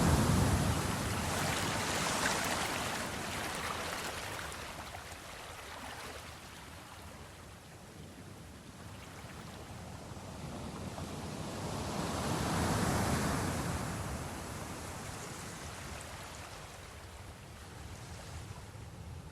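Ocean waves breaking and washing in: one surge at the start that slowly ebbs away, and a second swell building and breaking about two-thirds of the way through.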